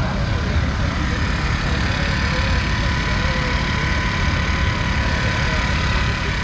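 Steady low rumble of an idling motorcycle engine, with a faint steady whine above it.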